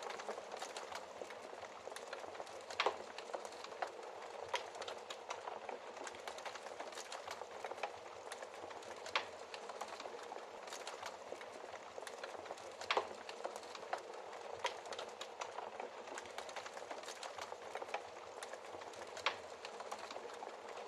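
Wood fire crackling in a fireplace: a steady soft hiss of burning, with frequent small pops and a handful of louder, sharper snaps.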